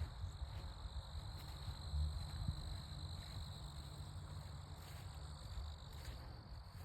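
Crickets trilling in a steady high note, over a low rumble on the microphone.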